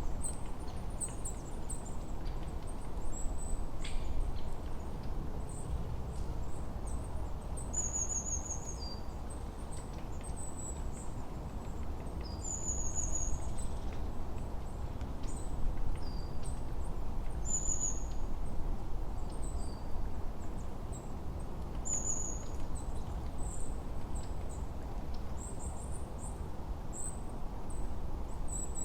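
Forest ambience: small birds give short, high chirps and quick down-slurred notes every second or two, over a steady low rush of wind.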